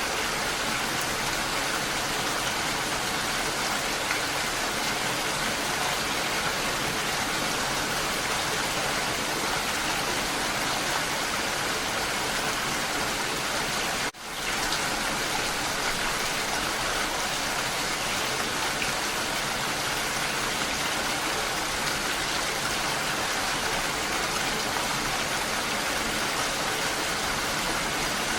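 Steady rain falling, an even hiss of many drops. About halfway through, the sound cuts out for an instant and comes straight back.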